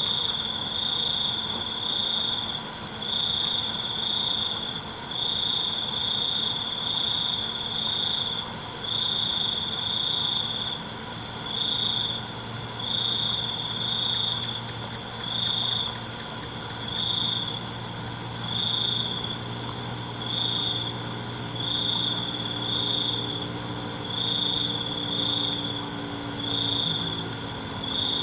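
Night insect chorus: crickets chirping in short pulses, about one to two a second, over a steady high trilling of other insects. A low engine-like drone comes in about halfway through and runs on underneath.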